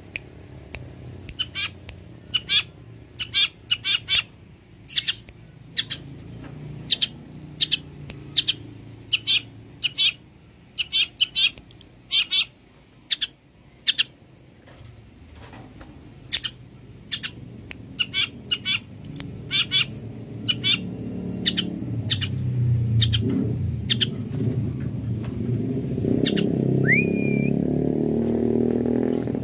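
Long-tailed shrike singing: a long run of short, sharp notes, often in quick clusters, with a slurred whistle near the end. Under it a low rumble of background noise grows louder in the second half.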